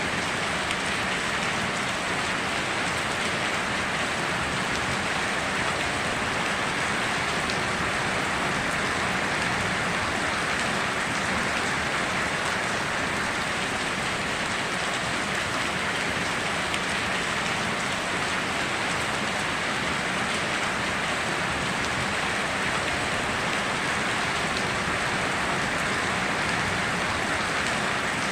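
Steady heavy rain falling, an even hiss of drops with no thunder or change in level.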